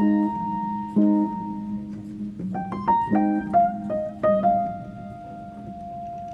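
Slow, sparse piano music: single notes and chords struck about once a second, each left to ring and fade, with a long held note near the end.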